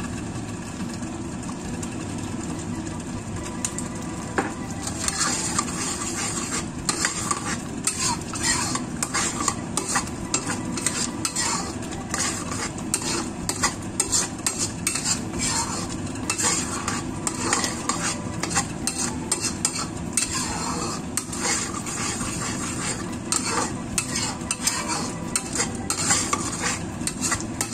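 Blended shallot, garlic and candlenut seasoning paste sizzling in oil in a wok, its water cooked off, while a metal spatula stirs and scrapes it. From about five seconds in, sharp clicks and pops come thick and fast.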